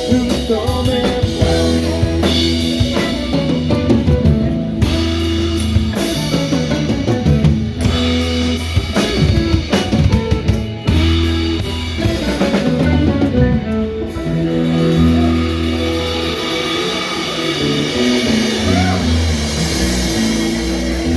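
Live rock band jamming instrumentally: drum kit, electric guitar and bass guitar, with steady held bass notes. The drumming is busy at first and thins out after about fourteen seconds.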